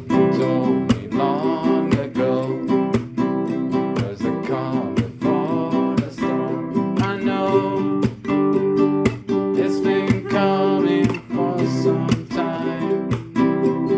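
Acoustic guitar strummed in a steady rhythm of chords, with a voice singing along.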